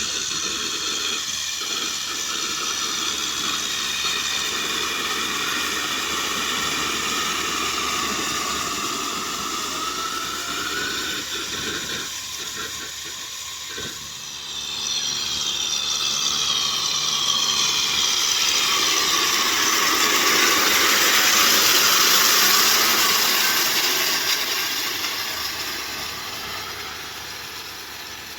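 Kubota M6040SU tractor's four-cylinder diesel engine running with a rotavator at work. The sound dips briefly about halfway through, then swells louder and more hissing before fading near the end.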